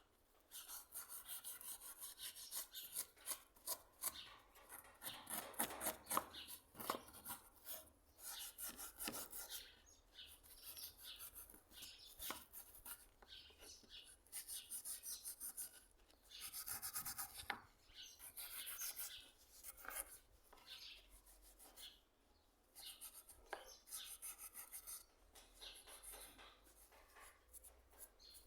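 Repeated hand-worked abrasive scraping strokes on a hand plane's parts, a gritty rasping rub in irregular runs of strokes with short pauses between.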